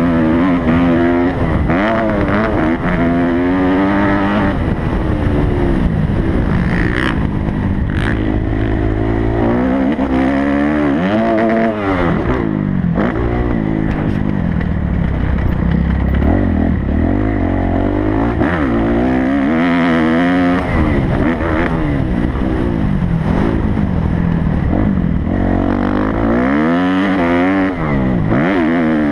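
Kawasaki motocross bike's engine revving hard and dropping back again and again as it is ridden around a dirt track, the pitch climbing and falling every second or two, with wind rushing over the microphone.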